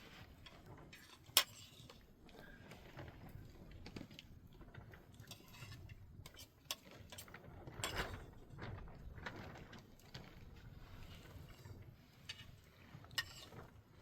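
Scattered faint clicks and knocks from something being handled, with a sharp click about a second and a half in, another near the end, and a louder scrape about halfway.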